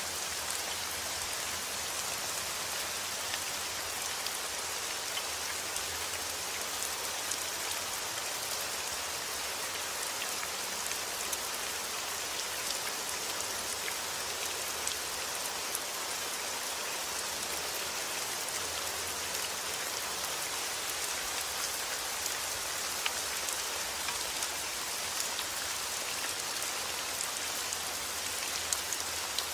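Steady heavy rain falling outdoors, an even hiss of countless drops pattering on surfaces, with fine individual drop ticks throughout.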